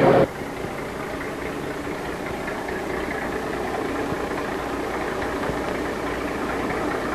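Steady mechanical hum of machinery running, with faint steady tones, after a louder sound cuts off sharply about a quarter second in.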